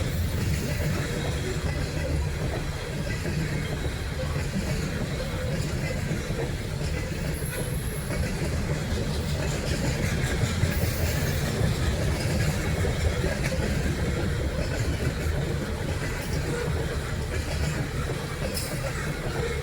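A train rolling past, its wheels on the rails making a steady low rumble.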